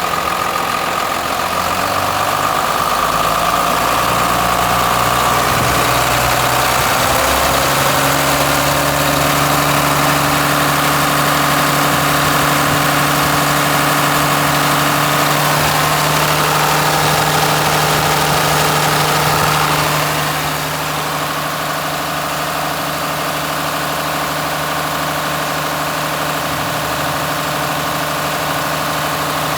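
Cummins 5.9-litre 12-valve inline-six diesel with a mechanical P-pump, running steadily near idle. Its pitch steps up slightly about seven seconds in, and it gets a little quieter about twenty seconds in.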